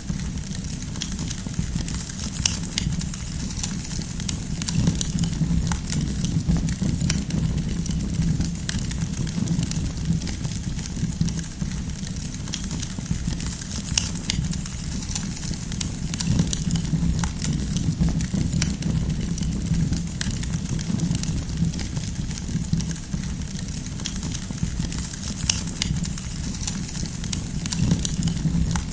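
Wood fire burning, with frequent irregular crackles and small pops of the firewood over a steady low rush of the flames.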